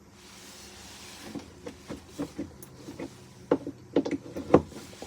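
Coffee-making gear being handled: a run of irregular light clicks and knocks that grow louder toward the end, over a faint steady hum.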